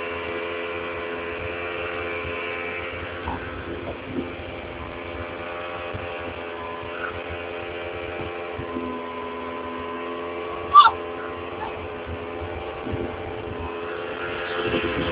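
Motorboat engine running steadily under way, a constant drone. A brief sharp sound cuts in once, about eleven seconds in.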